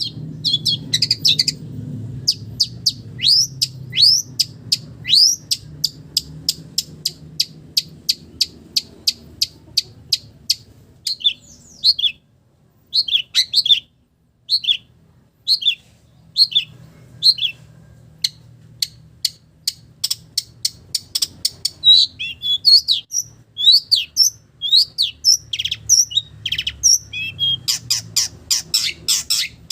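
Long-tailed shrike (cendet) singing: a long run of short, sharp, high chirps, a few each second, broken by brief pauses and packed into a fast rattle near the end. Its song is filled with calls copied from village birds.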